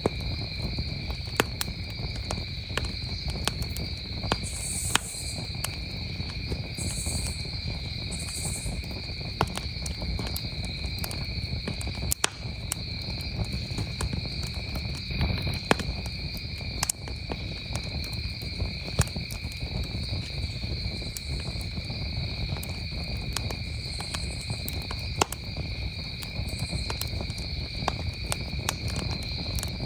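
Campfire crackling, with sharp pops at irregular intervals, over a steady chorus of crickets chirping.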